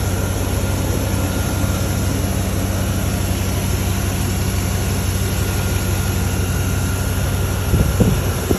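An engine running steadily: a constant low, even drone.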